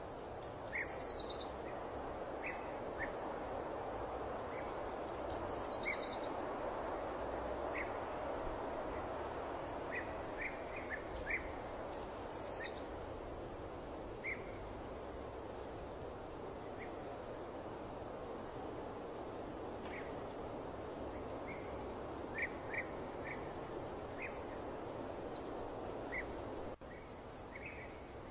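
Birds chirping over a steady background noise: many short chirps, and a few quick calls that fall in pitch, about a second, five and a half, and twelve seconds in. The background briefly drops out near the end.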